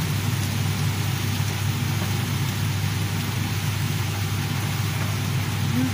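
A minced-meat-and-herb kibbeh mixture sizzling in a pan as it is stirred with a wooden spatula, over a steady low hum.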